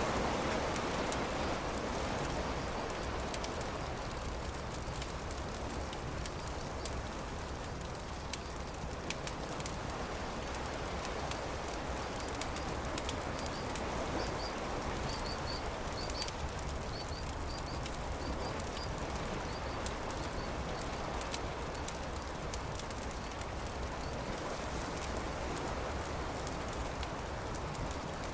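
Campfire crackling with many small pops over a steady low wash of surf. A few short, high bird chirps come about halfway through.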